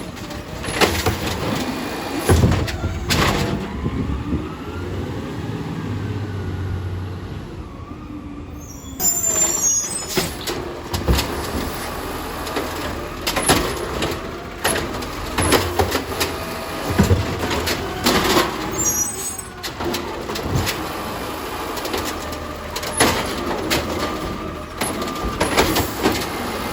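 Garbage truck on a yard-waste collection: engine running, with repeated clanks and knocks from the truck's work, and a short burst of air hiss about nine seconds in.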